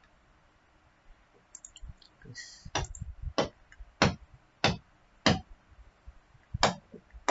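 Computer mouse clicking: a series of sharp single clicks, five at an even pace about two-thirds of a second apart, then two more after a short pause.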